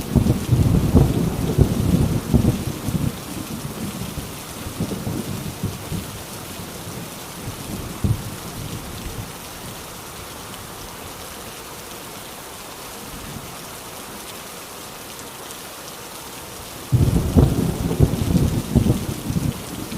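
Heavy rain falling steadily in a thunderstorm. A roll of thunder rumbles at the start and dies away over several seconds, and another thunderclap breaks in suddenly near the end.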